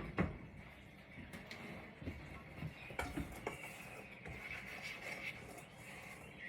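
Kitchen handling sounds: one sharp click right at the start, then a few light knocks and taps of cookware and utensils on the counter, spaced out over quiet room tone.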